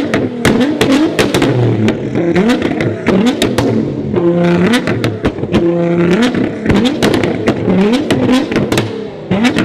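A tuned sports car's engine revved hard over and over, the pitch sweeping up and dropping back about once a second, and held at a steady high rev twice near the middle. Sharp cracks and pops come from the exhaust throughout.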